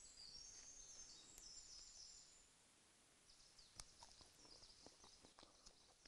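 Near silence outdoors, with faint high bird chirping for the first two seconds or so, then a few soft clicks.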